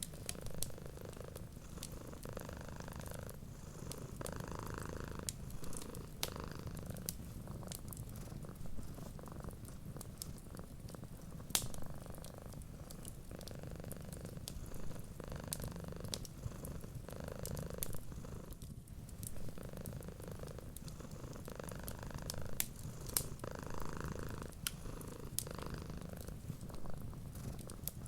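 Cat purring steadily, swelling and easing with each breath every second or two, over scattered faint crackles and pops from a wood fire.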